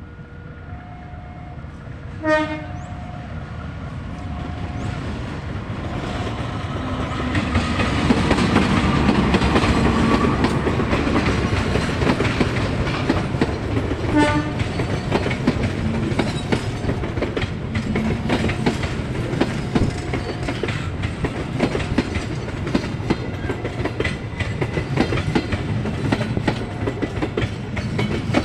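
A KAI passenger train passes close by and sounds two short horn blasts, about two seconds in and again about fourteen seconds in, a driver's greeting by horn. Its rumble builds over the first several seconds and runs on with the clickety-clack of wheels over rail joints as the carriages roll past. A repeating two-note tone sounds during the first few seconds.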